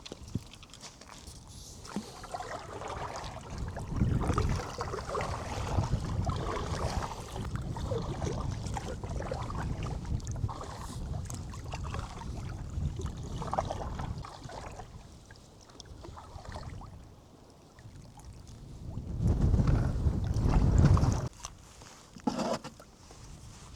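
Kayak being paddled: water sloshing and gurgling against the hull in uneven surges, with the loudest surge a few seconds before the end.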